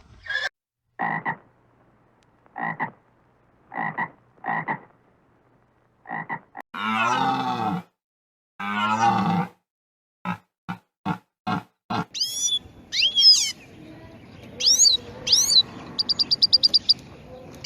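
A run of different animal calls, one after another: short croaking calls, then two long deep roars, a quick string of short grunts, and finally high sweeping bird chirps with a fast trill.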